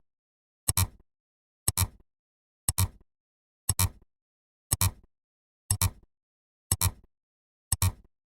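A short, sharp double-click sound effect repeating about once a second, eight times in a row.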